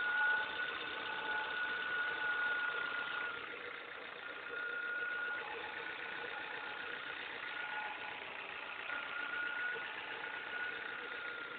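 Ford car engine idling, with a high-pitched whine that keeps fading out and coming back over the running noise: the strange engine noise that is being diagnosed.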